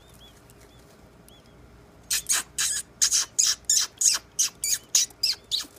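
Nestling birds begging: a few faint thin chirps, then about two seconds in a rapid series of loud, harsh calls, about four a second.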